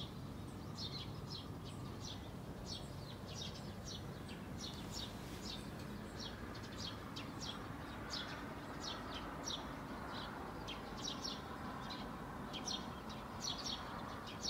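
Small birds chirping: short, high chirps, several a second, over a steady low background hum.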